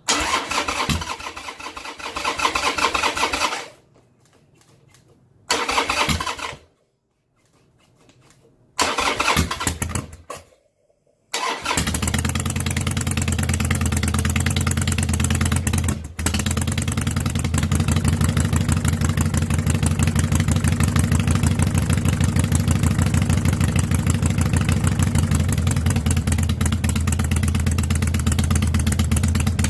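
Cold start of a carbureted 2005 Harley-Davidson Sportster 1200's air-cooled V-twin through a Screamin' Eagle aftermarket exhaust. Three short start attempts with silent pauses between them come first. About eleven seconds in the engine catches and settles into a steady, loud idle, stumbling once briefly a few seconds later.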